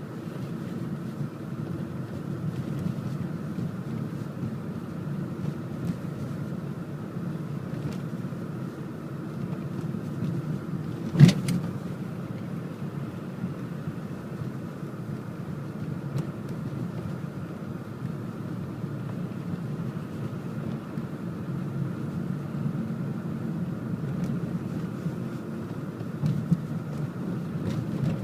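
Mercedes-Benz car driving, a steady low hum of engine and road noise, with one sharp knock about a third of the way through and a few lighter clicks near the end.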